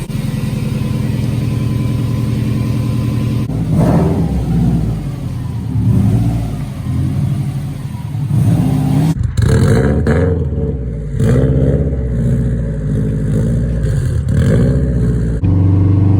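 Subaru WRX's swapped-in JDM flat-four engine running steadily, then revved hard over and over, its pitch climbing and falling with each push of the throttle.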